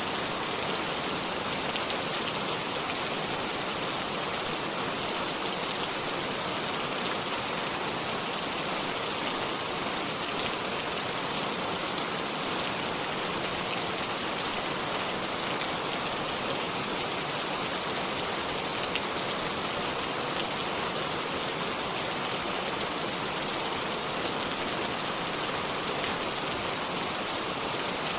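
Steady rain falling, an even hiss of rainfall with fine drop patter on leaves and surfaces.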